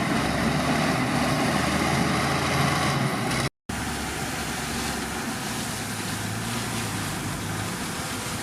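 Heavy diesel construction machinery engine running steadily, broken by a brief silent gap about three and a half seconds in, after which it carries on slightly quieter.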